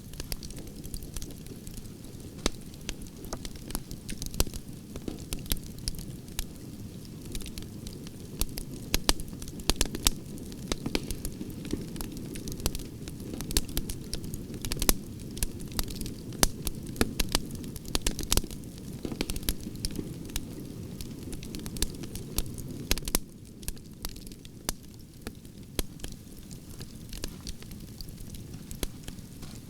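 Wood campfire of burning branches crackling: frequent sharp pops and snaps over a low, steady rumble of flame, which eases slightly a little past two-thirds of the way through.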